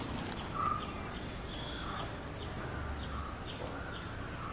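Birds calling: short calls repeated every half second or so, over a faint steady background hiss.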